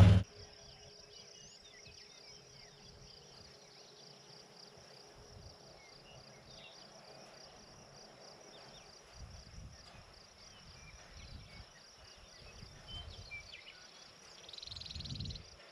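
Insects chirping steadily in a high, rapidly pulsing chorus, faint under occasional low rumbles in the second half.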